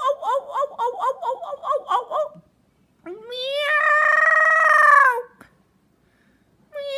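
Pet bird vocalizing: a quick run of short high chirping notes, about five a second, that stops after about two seconds, then one long drawn-out call that rises and then holds for about two seconds. Another call starts at the very end.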